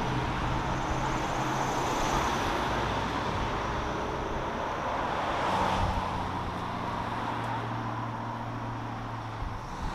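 Road traffic noise: a steady wash of vehicle sound with a low, steady engine hum that gets stronger about halfway through.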